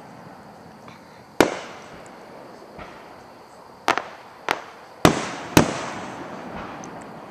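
Fireworks going off: a series of sharp bangs, each trailing off in an echo. One comes about a second and a half in, then four more come about half a second apart in the second half.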